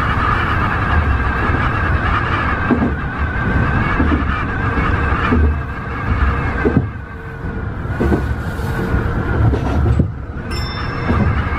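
Electric train running on the line, heard from on board: a steady rumble and running whine with a few knocks from the wheels over the track.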